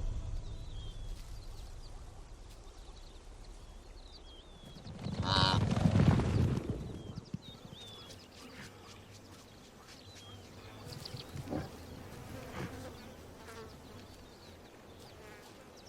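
Outdoor wildlife ambience with faint insect buzzing and small chirps, and one louder animal call lasting about two seconds, about five seconds in.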